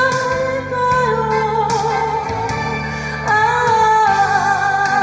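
A voice singing a Korean ballad over a backing track, holding the last word of a line with vibrato and then gliding down. A sustained melody line comes in over the accompaniment about three seconds in.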